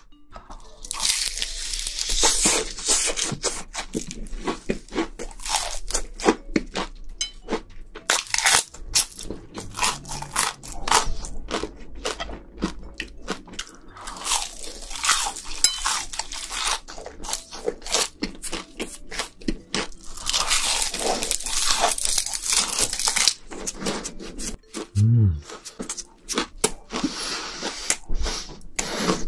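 Close-miked crunching and chewing while eating shrimp, a dense run of irregular crisp crunches.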